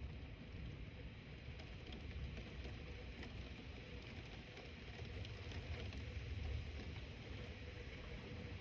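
Thunderstorm ambience: a low, steady rumble that swells slightly past the middle, with faint scattered ticks above it.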